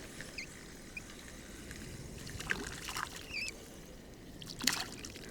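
Quiet riverside ambience with a few small water trickles and splashes, and two short bird chirps, one about half a second in and one about three and a half seconds in.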